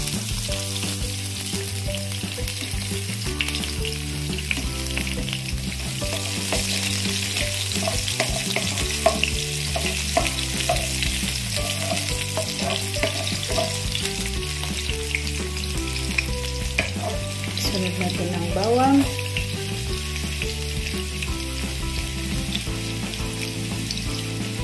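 Sliced red onion and garlic sizzling and crackling in hot oil in a wok, stirred now and then with a wooden spatula.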